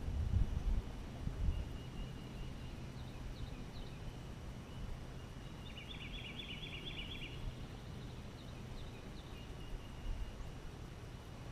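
Open-air lakeside ambience: a steady low rumble, with a few heavier bumps in the first second and a half. A small bird's rapid trill of quick repeated notes comes about six seconds in, with a few faint chirps around it.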